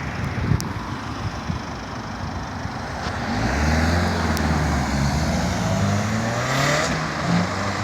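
Lotus sports car driving: road and tyre noise at first, then about three seconds in the engine note comes up and climbs and drops several times as it revs.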